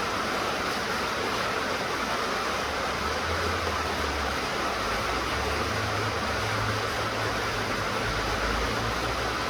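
Steady rain falling, an even hiss. A low rumble sits underneath from about two and a half seconds in.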